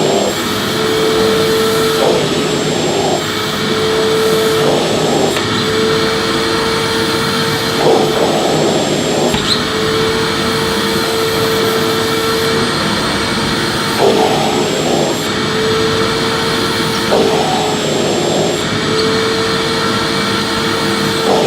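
Vacuum cleaner running while vacuuming: a steady whine over a rush of air, broken every few seconds by a brief change as the nozzle moves.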